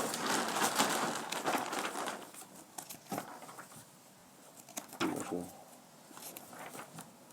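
Paper pages of a football matchday programme rustling as they are handled and turned, followed by a few scattered light clicks and taps.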